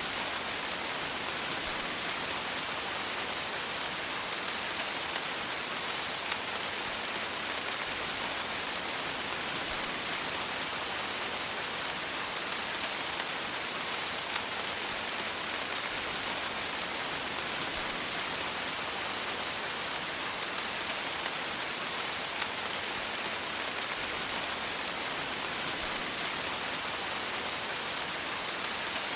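Steady rain falling, an even hiss of many small raindrops pattering on a surface, unchanging throughout.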